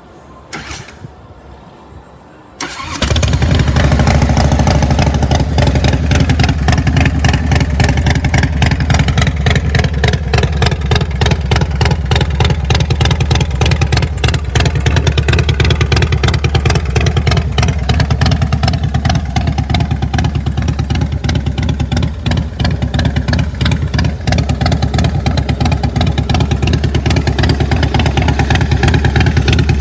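Harley-Davidson Deuce's V-twin engine being started: after a short burst of sound about a second in, it fires about three seconds in and then runs steadily with a dense rapid pulse.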